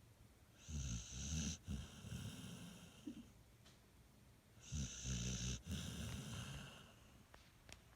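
Pit bull snoring: two long snores about four seconds apart, each loudest in its first second and then fading.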